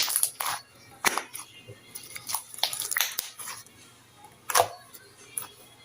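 Jelly-textured slime being squeezed and pressed by hand, giving irregular sharp sticky clicks and pops, a dozen or so in a few seconds.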